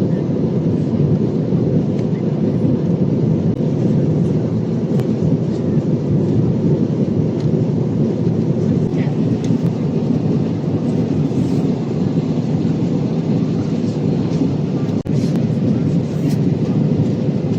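Steady low roar of an Airbus A320's cabin in flight: airflow and engine noise heard from a seat in the rear cabin, even in level with a brief dip about 15 seconds in.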